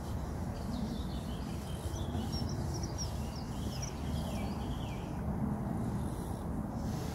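Small birds chirping repeatedly, short high calls for the first few seconds, over a steady low outdoor rumble.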